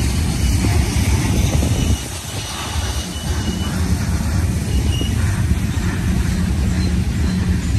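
Union Pacific manifest freight train's cars rolling past: a steady low rumble of steel wheels on rail, briefly quieter about two seconds in.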